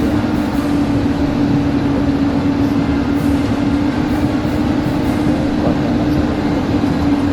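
Heavy machinery running steadily, with a constant drone over a rough rumble.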